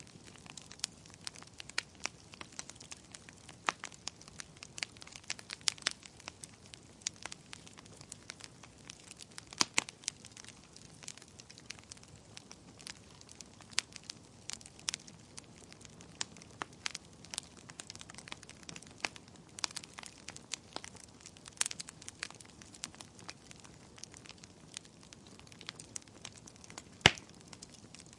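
Wood fire crackling, with frequent irregular sharp pops and snaps over a soft steady hiss. A louder pop comes near the end.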